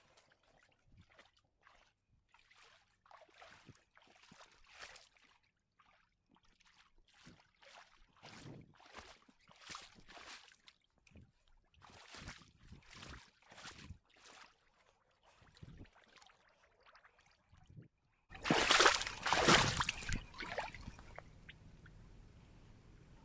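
Wading through shallow water, slow irregular sloshing steps, then a much louder burst of splashing or rushing noise about eighteen seconds in.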